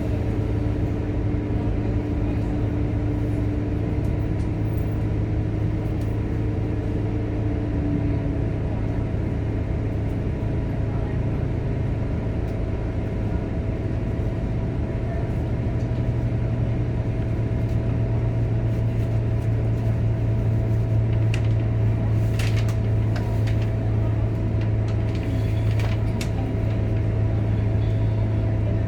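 Scania K230UB city bus running, with a steady low engine drone and a drivetrain whine that shifts to a higher single tone about eight seconds in. A few light clicks and rattles come in during the last several seconds.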